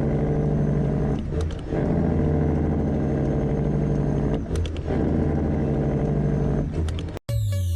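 Straight-piped Detroit Diesel engine of a Freightliner Classic XL truck running loud and steady, dipping briefly three times: about a second in, about four and a half seconds in, and again near the end. The engine cuts off abruptly near the end and electronic music begins.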